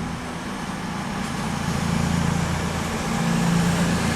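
Diesel engines of a Class 220 Voyager diesel-electric multiple unit running, a steady low drone that grows gradually louder.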